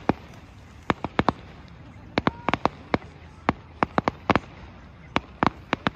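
Fireworks going off: about twenty sharp bangs and cracks in quick, irregular succession, some bunched close together.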